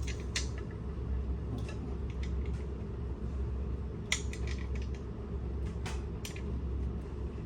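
Scattered light metallic clicks and clinks as metal parts and tools are handled during pump motor assembly, over a steady low hum.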